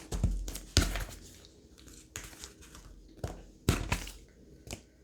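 Tarot cards being handled on a table, with several short, sharp taps and snaps of cards being drawn and laid down, spread out over a few seconds.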